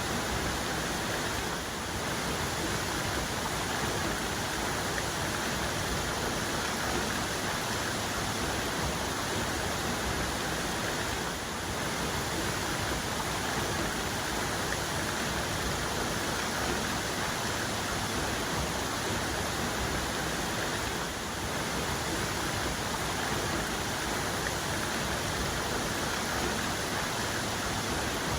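Waterfall's main cascade pouring: a steady, even rush of falling water.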